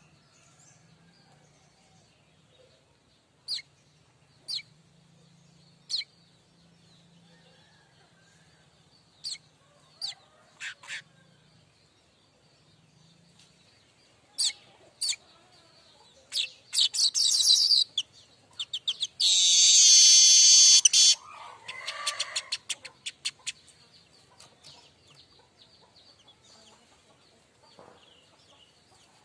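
Streaked weaver singing: a few sharp, separate chip notes, then a rapid trill that builds into a loud, buzzing, sizzling note about two seconds long, followed by fainter fluttering notes.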